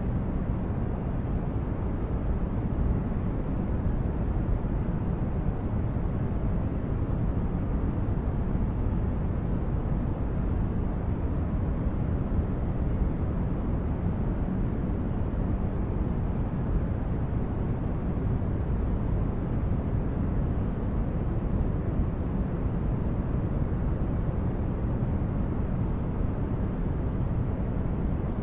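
Sci-fi starship ambience: a steady, deep rumbling noise like brown noise, even throughout with no tones or distinct events.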